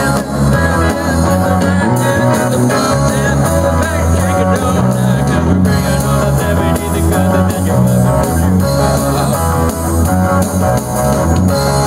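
Live band playing an instrumental funk passage, guitar to the fore over bass and drums.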